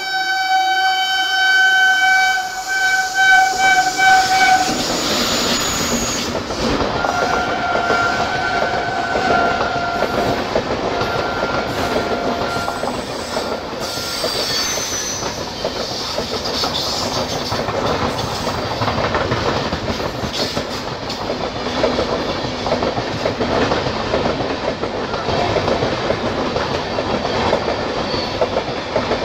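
Indian Railways express train passing through at speed: the electric locomotive sounds its air horn in two long blasts, the first about four seconds long and the second, fainter one starting about seven seconds in. Then comes the steady rattle and clickety-clack of the coaches' wheels running over the rail joints.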